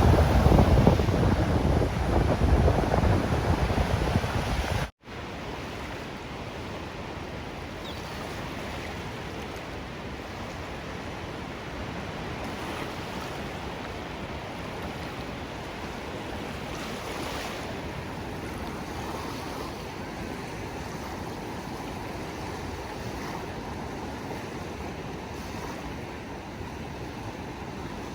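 Ocean surf washing, loud for the first five seconds, then cutting out for an instant and resuming as a quieter, steadier wash of waves.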